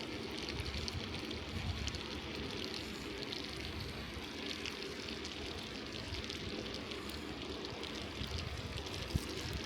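Bicycle tyres rolling steadily over a snowy, slushy street, a wet crackling hiss over low wind rumble on the microphone, with one small knock just before the end.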